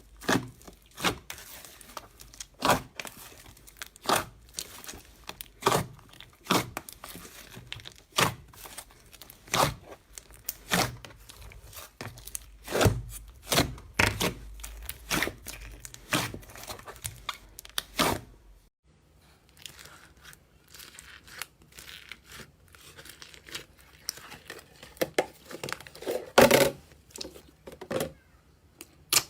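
Slime being squeezed and stretched by hand, giving a run of sharp, irregular pops and clicks, about one or two a second. Two-thirds of the way through the sound changes to quieter crackling, with one loud pop near the end.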